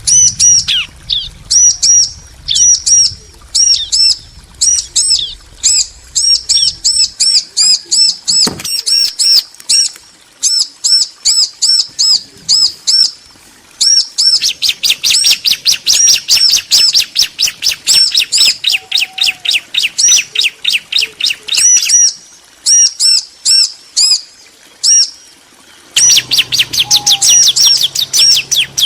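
Bar-winged prinias, a female and a male, answering each other with long runs of rapid, high, repeated chirps; about halfway through the chirping becomes denser and faster for several seconds.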